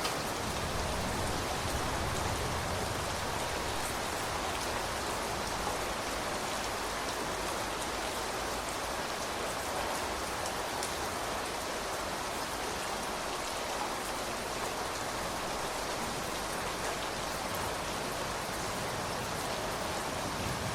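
Steady rain falling, an even hiss with fine droplet patter on surfaces.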